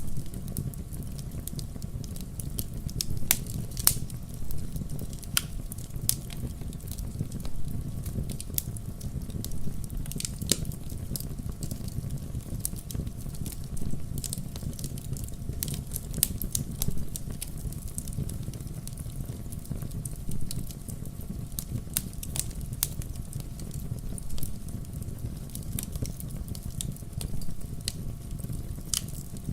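Wood fire in a fireplace burning steadily: a low rumble of flames with irregular sharp crackles and pops from the burning logs.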